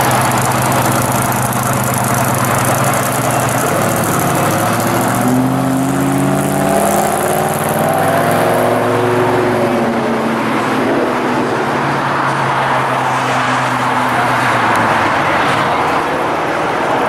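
Hot-rodded car's engine pulling away and accelerating, its pitch rising from about five to nine seconds in, then fading into road noise as the car drives off.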